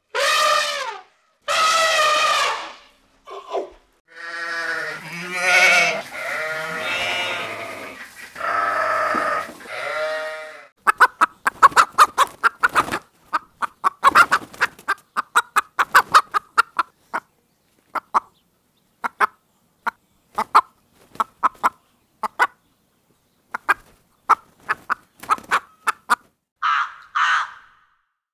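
An elephant trumpeting, followed by several seconds of longer, lower animal calls. Then a flock of chickens clucking in quick, short notes for about fifteen seconds, and crows cawing a few times near the end.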